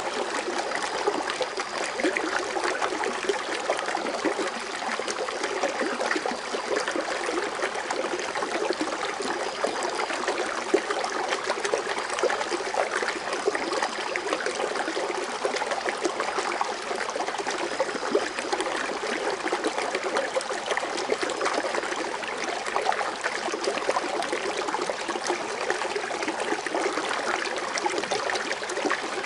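Foaming water fountain running steadily: an even, continuous splashing and trickling of falling water.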